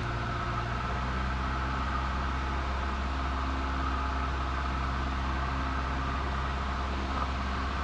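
Cessna 172N's four-cylinder Lycoming engine and propeller droning steadily in the cockpit during the final approach to landing, with no change in pitch.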